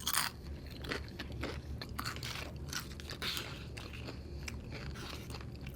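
Close-miked chewing of crunchy food: a run of crisp crunches and bites, the loudest right at the start.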